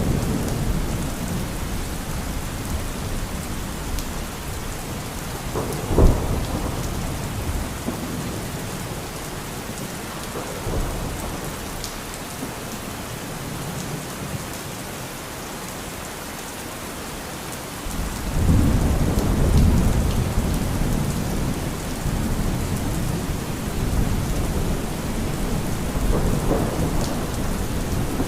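Steady rain with thunder: a sharp thunderclap about six seconds in, then a long low rumble of thunder building a little past halfway and fading slowly.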